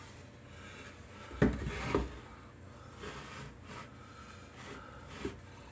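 Handling knocks on a workbench: two sharp knocks about half a second apart a little over a second in, then a few light taps and rustles, as the wooden birdhouse parts and tools are moved.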